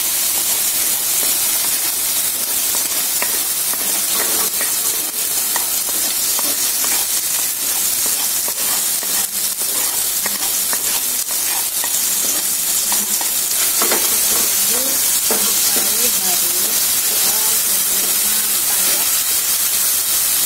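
Ground spice paste of shallots, garlic, candlenut and chili frying in hot oil in a stainless steel pan. It makes a steady, loud sizzle with scattered small clicks and scrapes as it is stirred with a spatula.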